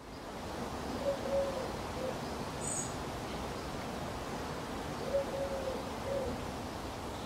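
Outdoor garden ambience: a steady background hush with a bird calling in low notes, in two short phrases of about three notes each, and one brief high chirp a little under three seconds in.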